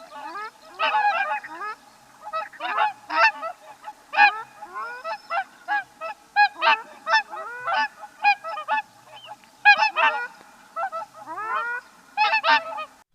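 A flock of fowl calling: many short, pitched calls overlapping in quick clusters, several a second.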